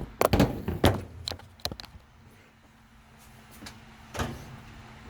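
A quick run of knocks and clatters, then a single thump about four seconds in: hands working on a washing machine's metal cabinet as its panel screws are put back in.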